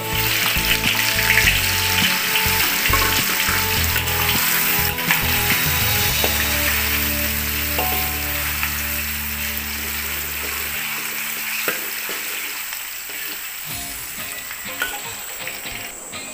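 Sausage strips and chopped garlic sizzling loudly in hot oil in a wok, with a metal spatula stirring through them. Sustained low notes of background music sit underneath and fade out about two-thirds of the way through.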